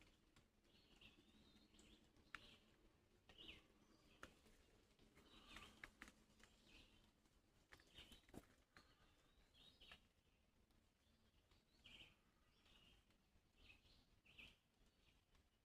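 Faint birdsong: short chirps and calls repeating about once a second, with a few faint ticks in between.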